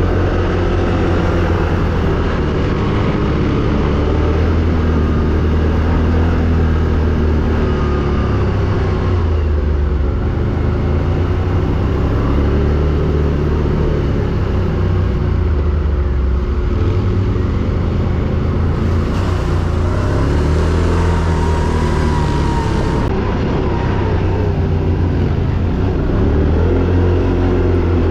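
ATV engine running under load, its pitch rising and falling as the throttle is opened and eased. There are a few seconds of hiss about twenty seconds in.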